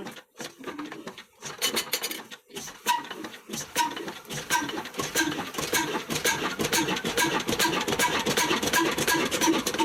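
Old black diesel engine of the Ruston & Hornsby kind, running with a steady mechanical clatter that sets in about two and a half seconds in, its regular beat quickening slightly.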